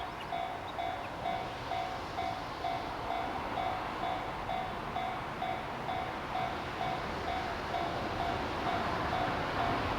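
Railway level crossing warning bell ringing about twice a second while a train approaches, the train's rumble growing louder toward the end.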